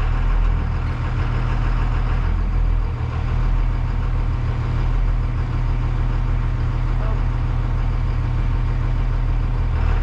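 A school bus's 24-valve Cummins diesel engine idling steadily in neutral, warming up after its first start following five months parked.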